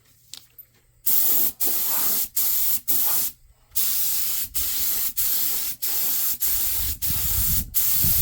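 Spray hissing in a run of about ten short bursts with brief pauses between, starting about a second in: rust coating or paint being sprayed onto the truck's frame.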